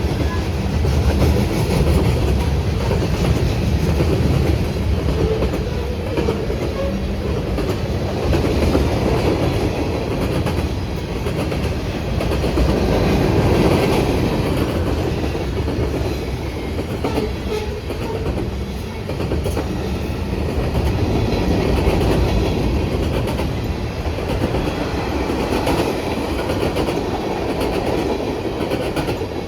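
A train rolling steadily past at close range, its wheels clattering over the rail joints in a continuous clickety-clack that swells and eases slightly without stopping.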